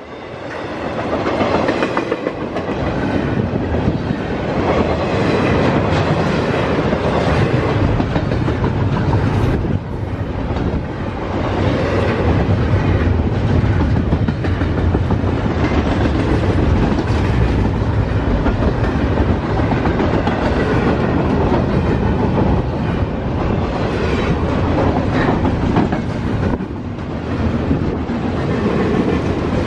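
Double-stack intermodal freight cars rolling past steadily, with a continuous rumble and the clickety-clack of wheels over the rail joints.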